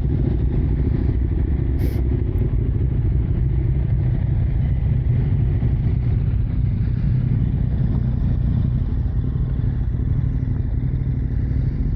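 Motorcycle engine idling steadily, with a faint click about two seconds in.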